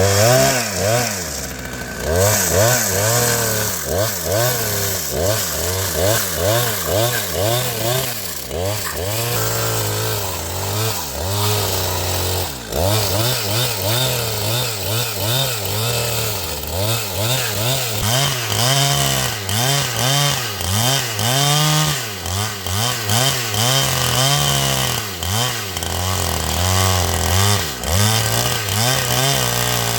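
Chainsaw running and cutting wood, its engine pitch rising and falling over and over as it works through the timber.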